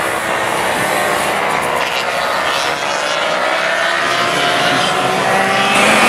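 Several racing motorcycles running at high revs together, their engine notes overlapping and climbing in pitch as they accelerate, loudest near the end.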